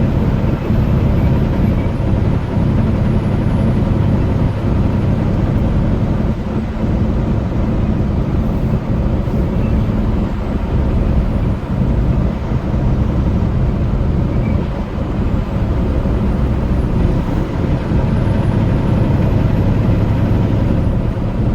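Steady drone of a truck's engine and tyre noise heard inside the cab while cruising on the highway.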